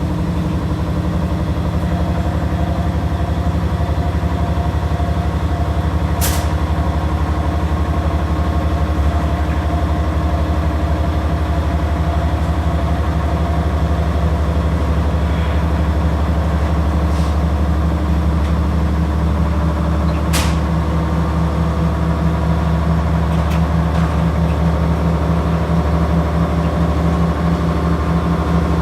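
Washing machine running with a steady, loud motor drone and hum, broken by a few sharp clicks.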